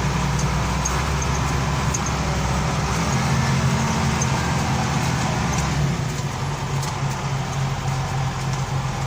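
Front-end loader's diesel engine running steadily, picking up a little about three seconds in and easing back a few seconds later.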